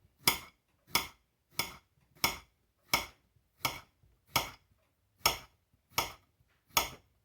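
Kitchen knife slicing a peeled pickling cucumber into thin discs, each cut ending in a sharp tap on the cutting board: about ten even cuts, one roughly every two-thirds of a second.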